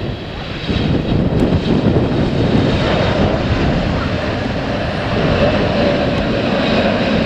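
Airliner passing low overhead on final approach to land, its engines a loud, steady rushing noise that swells up sharply less than a second in and stays loud.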